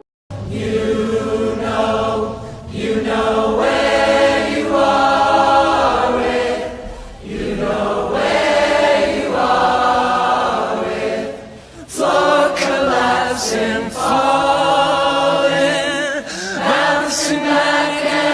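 Music: a choir singing slow, sustained phrases, about four seconds each, with brief pauses between them.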